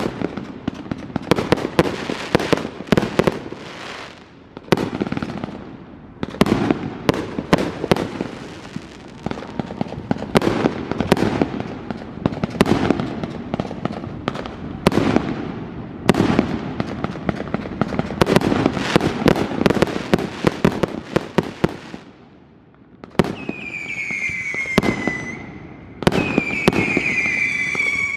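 Consumer aerial fireworks going off in quick succession, with many sharp bangs and pops over a steady crackle. Near the end come two shrill whistles that fall slightly in pitch, typical of whistling fireworks.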